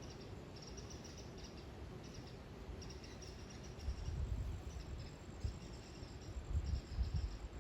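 High-pitched animal chirping in short bouts that repeat every second or so, over low rumbling noise that swells about halfway through and again near the end.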